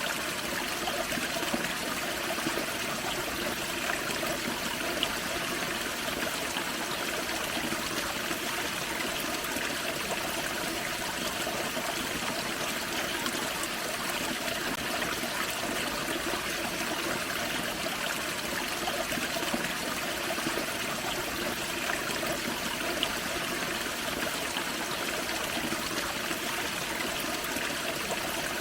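Small forest waterfall on a creek, water splashing and trickling over rocks in a steady, even rush.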